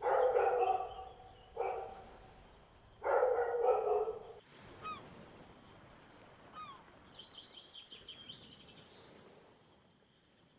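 Three loud calls from a large bird, the middle one shorter and weaker, followed by a few short high chirps and a quick twittering trill from a small bird.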